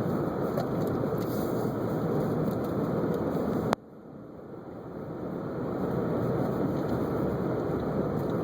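Steady road and engine noise of a car driving on snowy streets. About four seconds in, a sharp click; the noise then drops suddenly and swells back up over a few seconds.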